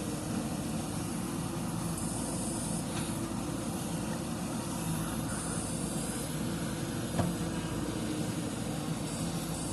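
Diesel engine of a JCB 3DX backhoe loader running steadily, with one sharp knock about seven seconds in.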